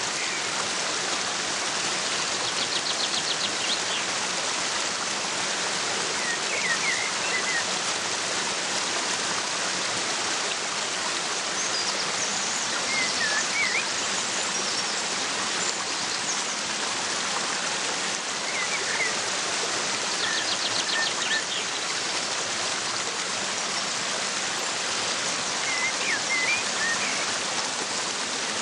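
Steady rush of falling water from a waterfall, with songbirds chirping briefly every few seconds over it and a quick high trill twice.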